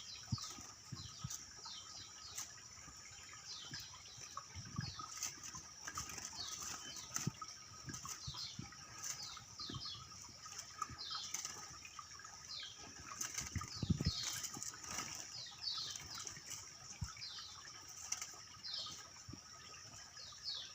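Lemon-bellied white-eyes (kecial kuning) giving short, falling chirps over and over, with scattered soft thumps, the strongest about fourteen seconds in.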